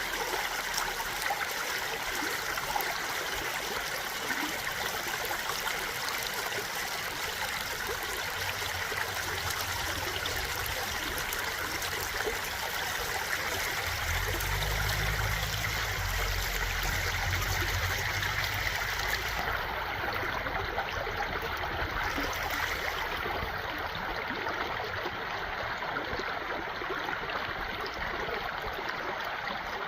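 Stream water flowing steadily in an even rushing trickle. A low rumble swells under it in the middle and then fades.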